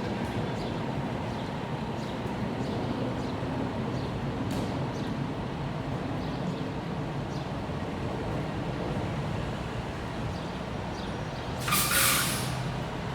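Diesel engine of a Seagrave Marauder II fire truck running steadily amid street noise. Near the end comes a loud half-second hiss of air from its air brakes.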